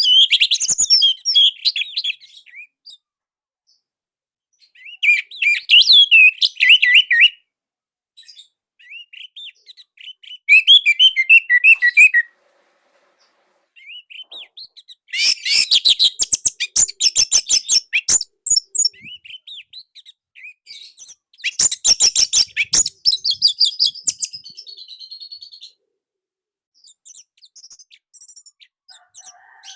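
Orange-headed thrush (anis merah) singing in loud bursts of rapid, high, varied notes, about six phrases with short silent pauses between them. The phrases in the middle are the loudest and densest.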